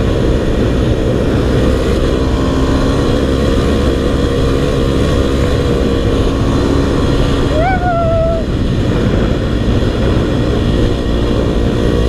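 Four-stroke dirt bike engine running steadily under way, with heavy wind rumble on the helmet camera. A short rising-then-held vocal sound about eight seconds in.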